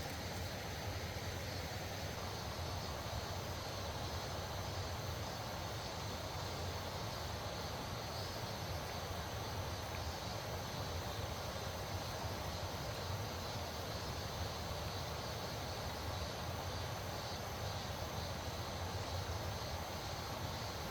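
Loud rushing water from a fast stream, a steady, unbroken roar.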